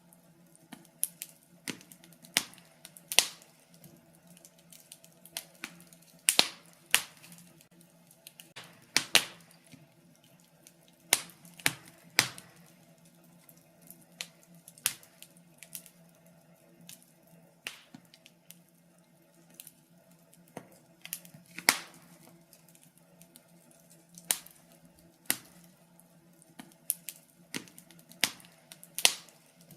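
Wood fire in a fireplace crackling, with irregular sharp pops of uneven loudness, a few each second, over a faint steady hum.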